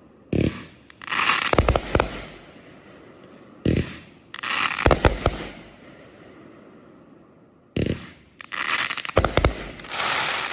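A 500-gram, 36-shot angled consumer firework cake firing. Three launch thumps come about four seconds apart, and each is followed by a cluster of sharp bangs and crackling as the shells burst.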